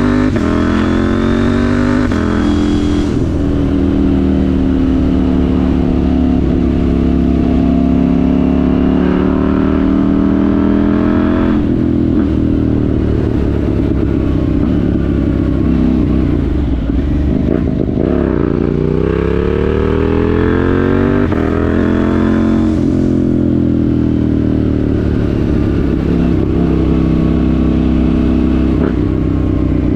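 KTM 790 Duke's parallel-twin engine through a Remus rear silencer with the catalytic converter removed, under way: it revs up through the gears, with the pitch dropping at each shift. It slows down a little past the middle, then pulls up through the revs again.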